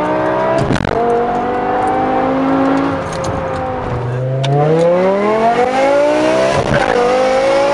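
A performance car engine accelerating hard. The revs climb steeply, then drop back at a gear shift marked by a sharp crack, about twice.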